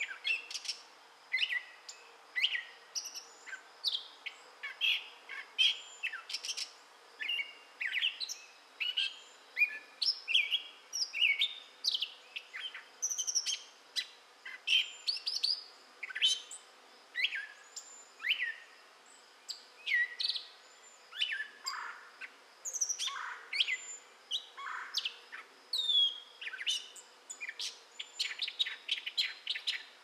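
Gray catbird singing: a long, rambling string of short, varied notes, many of them sliding up or down in pitch, one phrase following another with barely a pause.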